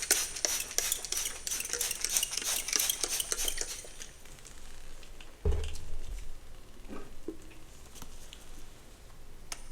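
Hair being brushed: a quick run of scratchy bristle strokes through the hair for the first four seconds or so, then a single low thump about five and a half seconds in and a few faint scattered clicks.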